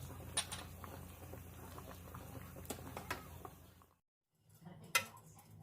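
Scattered faint clicks and crackles over a steady low hum, cut off abruptly about four seconds in, then a single sharp click a second later.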